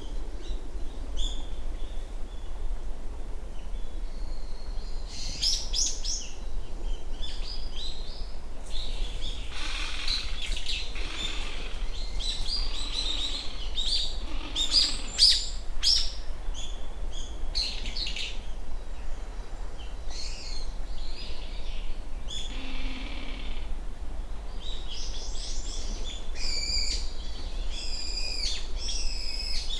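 Small birds calling and singing: many short high chirps and trills, busiest from about ten seconds in and again near the end, over a steady low hum of background noise.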